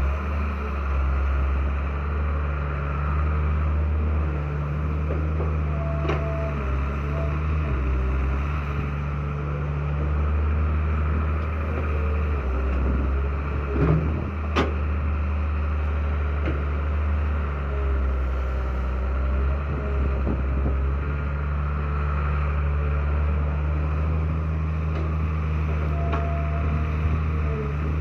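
Heavy diesel engine running steadily at a low, even pitch, with a couple of sharp metallic clanks, the loudest about halfway through.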